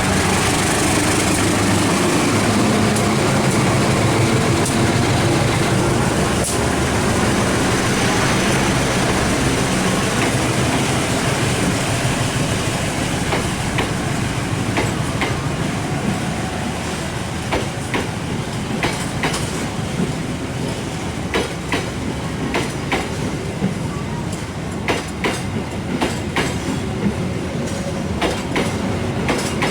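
Diesel-hauled passenger train passing: a steady engine drone in the first half, then the carriages' wheels clicking over the rail joints, the clicks coming a few times a second through the second half.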